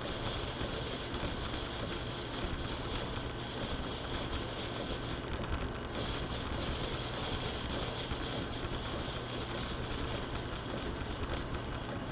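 Metal lathe running steadily with an even hum and hiss while a thread is cut, the tool being fed in slowly by hand.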